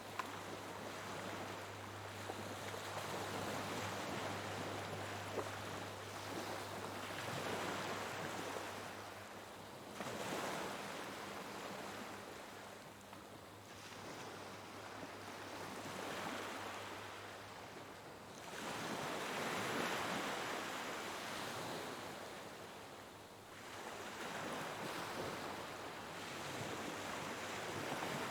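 Sea waves surging in, the surf swelling and falling away every few seconds, over a steady low hum.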